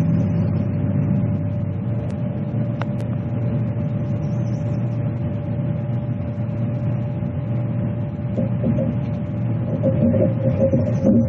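An engine running steadily with a constant hum, a little louder near the end.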